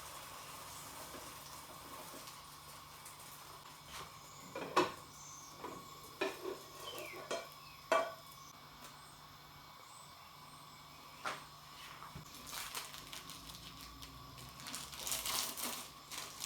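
Kitchen utensils and dishes clinking and knocking: a few sharp clinks in the middle, another a little later, and a busier stretch of rattling and scraping near the end, over a steady faint hum.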